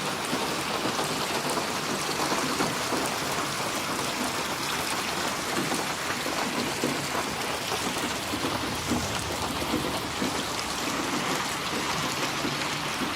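Steady rain falling, a dense hiss with many small drop impacts.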